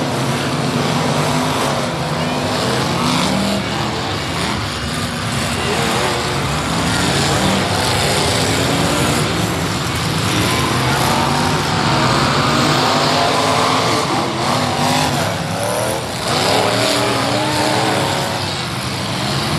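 Several old full-size cars racing on a dirt figure-8 track, their engines revving up and down over one another in a steady, loud din.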